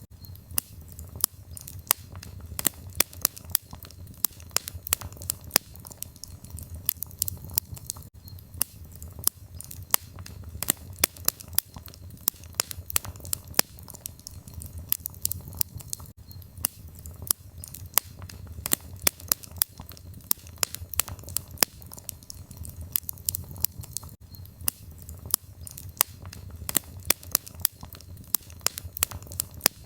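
Firewood burning in a fireplace: irregular sharp crackles and pops several times a second over a low, steady rumble of the flames.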